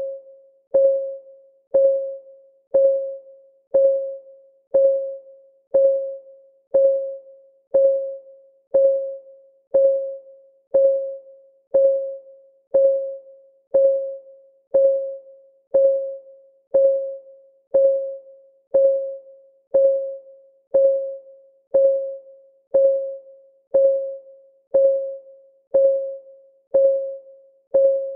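Clock ticking once a second, evenly and without pause, each tick a short click that rings briefly at one pitch.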